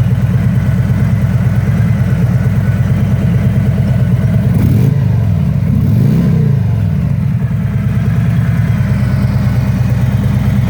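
Harley-Davidson Freewheeler trike's 1745 cc V-twin engine idling, blipped twice briefly about halfway through, each rev rising and dropping straight back to idle.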